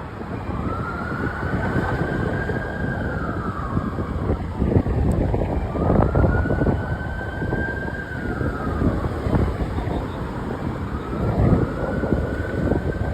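Fire engine siren on a slow wail, rising, holding and falling in three long sweeps, over heavy low rumble and wind noise on the microphone.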